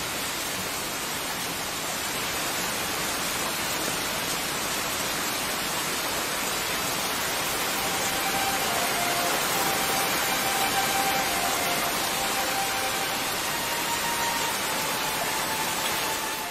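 Steady rain falling, an even hiss throughout. Faint held music notes come in about halfway through.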